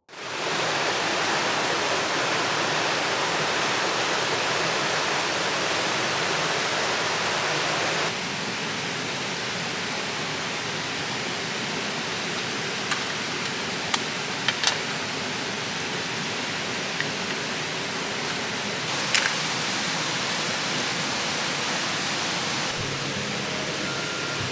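Mountain stream rushing over rocks, a steady even roar of water, stepping down slightly about eight seconds in. A few brief sharp clicks sound over it in the second half.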